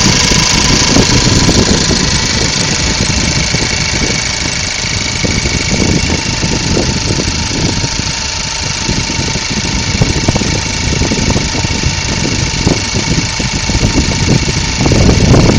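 2012 Ford Focus engine running at a steady idle.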